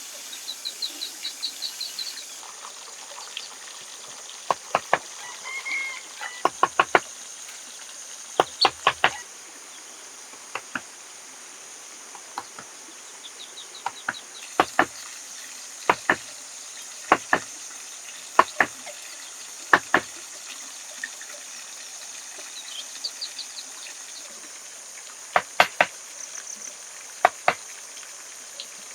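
Sharp knocks, singly and in quick runs of two to four at irregular intervals, over a steady high drone of insects. A rapid trill sounds in the first two seconds.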